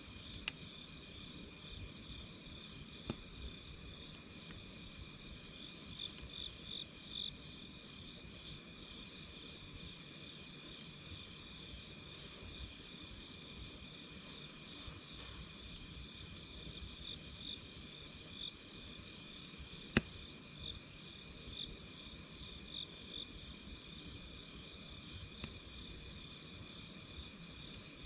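Wood fire crackling softly, with a few sharp pops, the loudest about twenty seconds in, over a steady, high, pulsing trill of insects.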